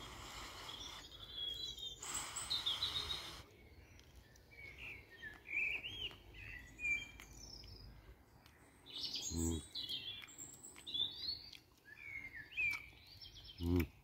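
Woodland birds singing, many short chirps and warbles rising and falling. A rustling noise fills the first few seconds, and two brief low sounds come near the middle and just before the end.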